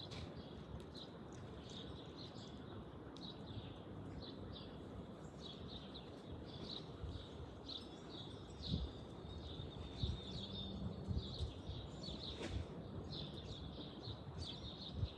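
Small songbirds chirping over and over, short high notes, over a steady low outdoor rumble with a few dull low bumps about nine and twelve seconds in.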